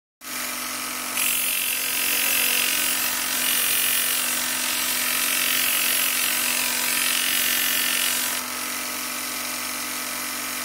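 Electric grinder running with a steady hum, and a louder high hiss from about a second in until near the end as the steel knife blade is ground against it.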